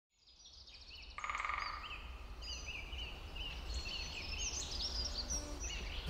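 Birds chirping and calling, many short repeated chirps with a quick trill a little over a second in, over a low steady rumble, fading in from silence during the first second.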